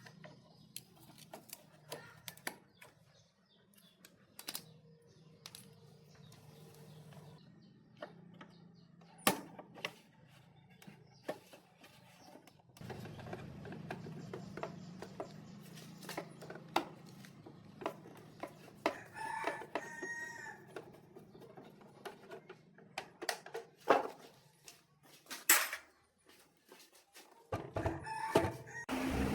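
A rooster crows once, partway through, over scattered sharp clicks and knocks and a steady low hum.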